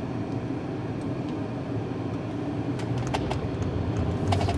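Steady road and engine noise inside a car cabin travelling at about 60 mph, with a few faint clicks in the second half.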